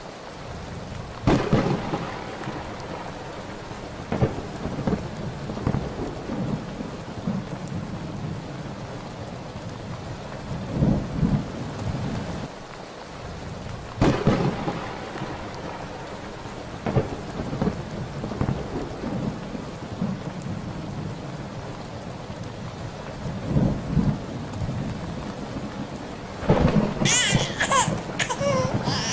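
Steady rain with rumbling thunder, several loud thunderclaps breaking in every few seconds. Near the end a high, wavering cry begins over the rain.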